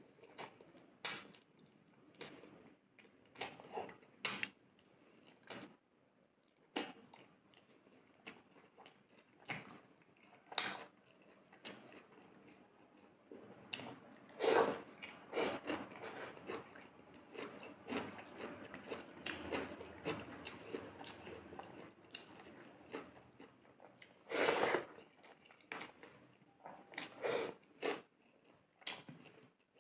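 Close-up chewing and mouth sounds of a person eating rice and fish curry by hand: irregular smacks and clicks of lips and tongue, busiest in the middle stretch, with a few louder pops.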